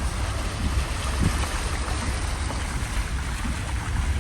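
Floodwater rushing, heard as a steady hiss, with wind buffeting the microphone as a low rumble throughout.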